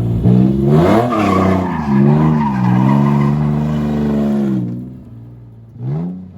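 A drift car sliding through a turn: the engine revving up and down under throttle with tyre squeal over it, fading away after about five seconds, then a short blip of revs near the end.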